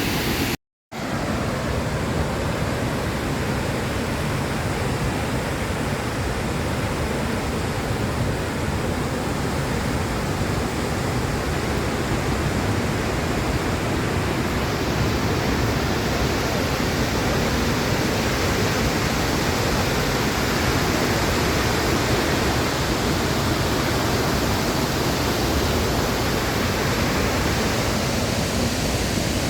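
Steady rushing of Victoria Falls' falling water, with no rhythm or tones. It cuts out completely for about half a second just after the start.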